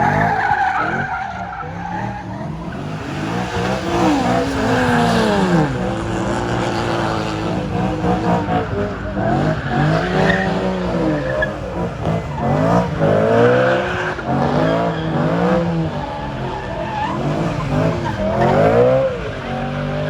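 A car doing donuts: the engine revs up and down again and again while the tyres squeal and skid.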